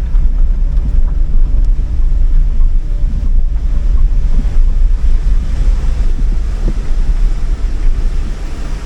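Strong gale wind buffeting the microphone as a loud, uneven low rumble that rises and falls with the gusts, with a vehicle running underneath.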